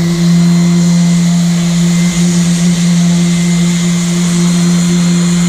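Electric power sander with a spinning disc, running steadily against a boat's surface: a steady motor hum under a continuous hiss of sanding.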